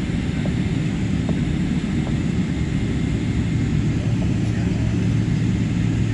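Passenger jet's engines and airframe noise: a steady, loud low rumble with a constant hum underneath.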